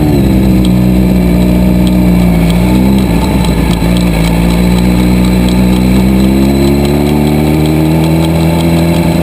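Car engine heard from inside the cabin, running at a steady speed. Its pitch dips briefly about three seconds in, then rises slowly as the car accelerates.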